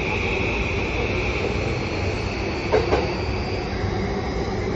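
Running noise of a Yamanote Line electric commuter train heard from inside the carriage: a steady rumble with a high whine that slowly rises in pitch. There is one sharp knock about three seconds in.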